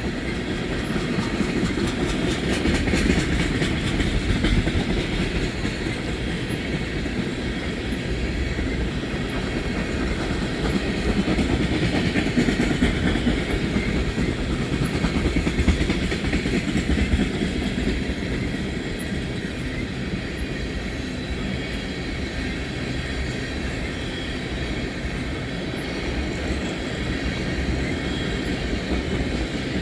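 Freight train of tank cars rolling past, a steady rumble of steel wheels on rail with some clatter over the rail joints.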